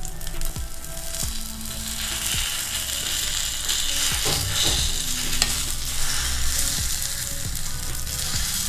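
Egg paniyaram sizzling in oil in a paniyaram pan as they are turned over with a spoon and fork, with a few light clicks of the metal utensils against the pan.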